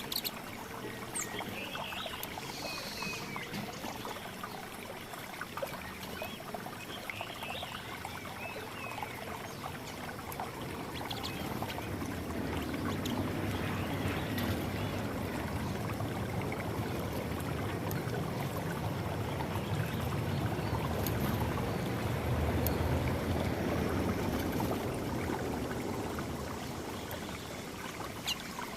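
Water running and trickling steadily, growing louder from about twelve seconds in and easing off near the end, with a few faint bird chirps in the first few seconds.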